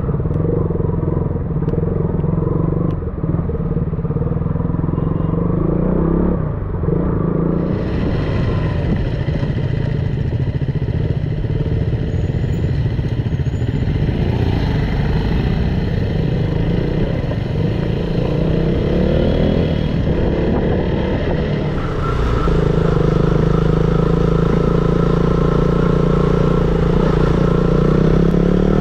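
KTM Duke single-cylinder motorcycle engine running under way, a steady engine note that grows louder about two-thirds of the way through and rises in pitch near the end as the bike accelerates.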